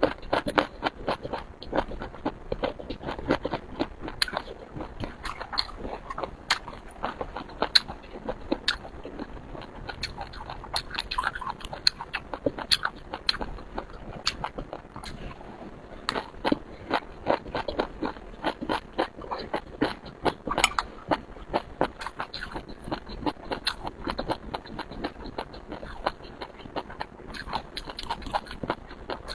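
Close-miked chewing and biting of seafood: a steady run of crunches and wet clicks.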